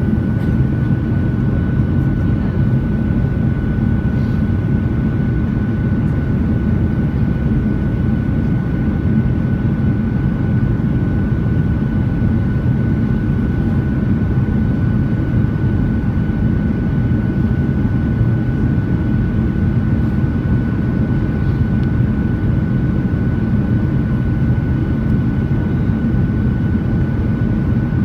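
Steady aircraft cabin drone: a low rumble of engines and airflow with a thin, constant whine above it.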